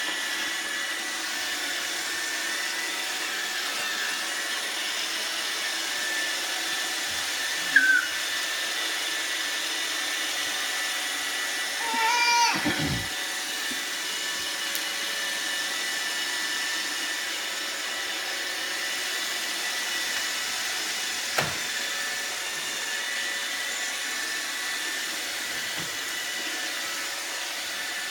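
Roomba robot vacuum running steadily, its motor whining over the hum of the suction and brushes. A few brief knocks come about 8 and 21 seconds in, and a short sound falling in pitch about 12 seconds in.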